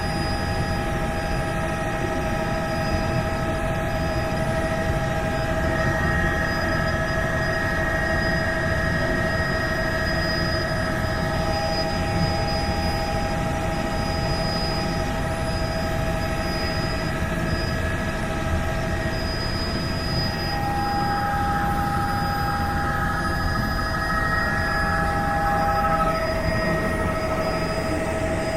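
Helicopter running steadily: a turbine whine of several steady tones over a dense low rotor rumble, with the tones shifting slightly near the end.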